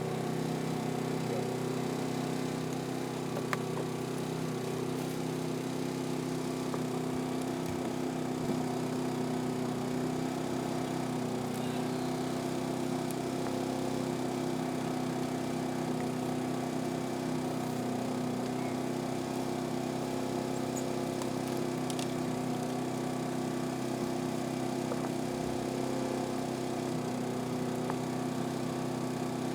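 Generator engine running at a steady speed, an even hum that does not change.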